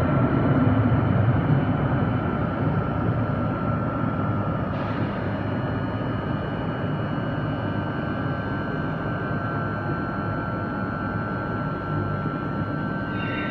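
Steady rumble of a TSR double-deck electric train pulling slowly into a vaulted underground station, with steady whining tones above it. The rumble eases gradually.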